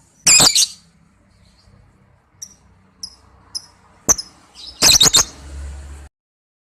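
Lovebird calling: a loud burst of shrill, high-pitched chattering calls about half a second in, three short high chirps in the middle, then another loud burst of several rapid calls about five seconds in.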